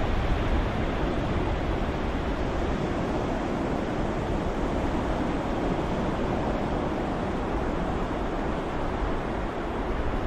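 Steady ocean-wave surf noise, an even wash with little rise and fall.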